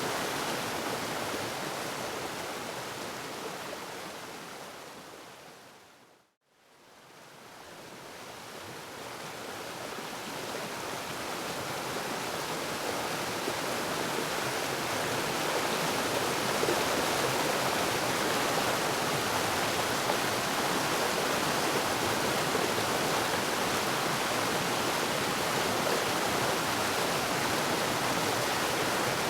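Waterfall rushing with a steady, even roar of falling water; it fades out to silence about six seconds in and fades gradually back up over the next several seconds.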